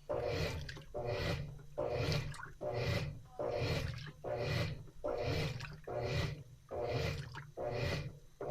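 Washing machine agitating a load during the wash: water sloshing back and forth in a steady rhythm, not quite two swishes a second.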